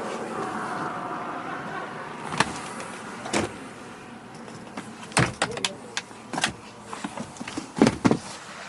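A steady whir for about two seconds, then a string of sharp clicks and knocks from something handled in the truck's cab, with the two loudest knocks close together near the end.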